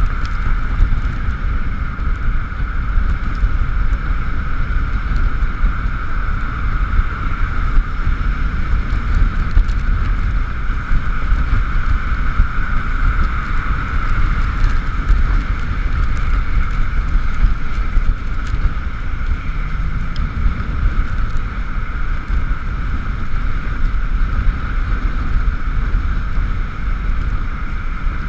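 Wind rushing over a GoPro while riding an Ekoway ML5000 electric scooter in the rain, with a steady high whine over the low wind rumble.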